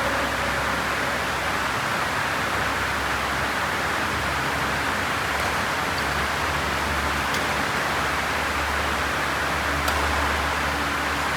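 Steady rushing noise with a couple of faint, sharp clicks partway through.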